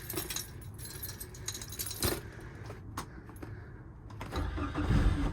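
Ignition keys jangling and clicking, then about four seconds in the 50 hp Johnson four-stroke outboard cranks and catches first time on a cold start, settling into a steady, quiet idle.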